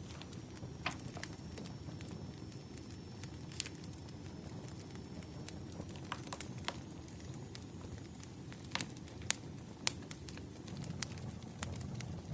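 Wood fire burning: a steady low rumble with scattered, irregular sharp crackles and pops, two louder pops about three-quarters of the way through.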